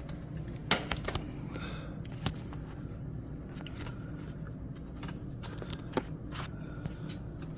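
Scattered small clicks, taps and scrapes of hand tools working at a door's strike plate, over a steady low hum.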